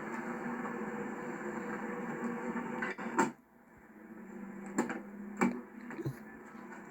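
A car door shutting with a solid thud about three seconds in, after which the steady background hum drops away, followed by three sharp clicks of latch or handle.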